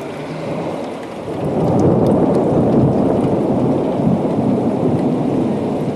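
Long rolling thunder rumble that swells up about a second and a half in and keeps going, over steady rain.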